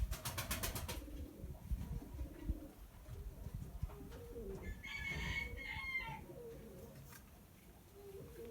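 Domestic pigeons cooing in low, gliding calls. A rapid run of sharp clicks comes in the first second, and a higher chirping bird call about five seconds in.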